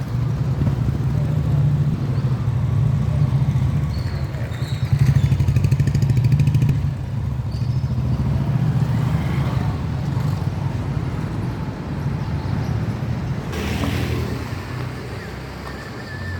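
A motor vehicle engine running with a steady low rumble, loudest about five to seven seconds in, and a short rushing noise about thirteen and a half seconds in.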